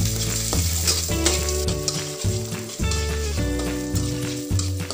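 Sliced shallots, garlic and chilli sizzling in hot oil in a non-stick wok, stirred with a metal spatula that scrapes now and then. Background music with held bass notes plays over it.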